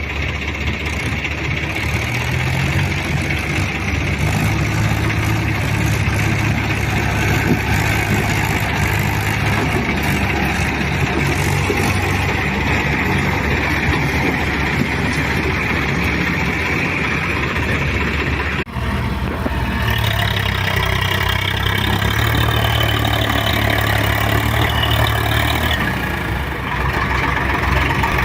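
Tractor diesel engine running steadily. About two-thirds through, the sound changes abruptly to another steady engine sound.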